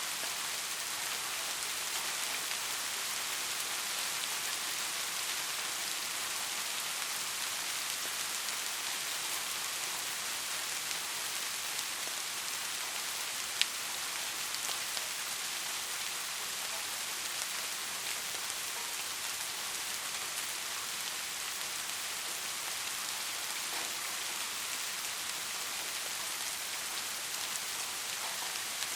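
Steady rain falling, a dense patter of drops with a single sharper drop tick about halfway through.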